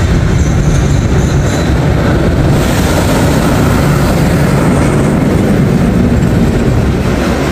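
Slow diesel passenger train running with a loud, steady rumble, a higher hiss rising about two and a half seconds in.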